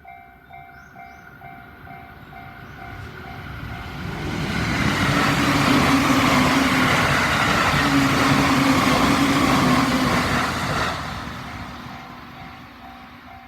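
Japanese level-crossing warning bell ringing in quick repeated dings while an electric train passes over the crossing. The train's rush of wheels and a steady motor hum build from about four seconds in, drown out the bell until about eleven seconds, then fade, leaving the bell ringing again.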